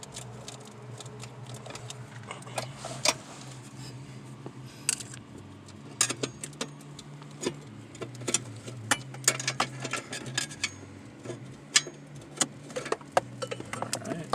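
Plastic wiring-harness connectors being unclipped and pulled off a car's engine computer by hand, giving irregular sharp clicks and clinks over a steady low hum.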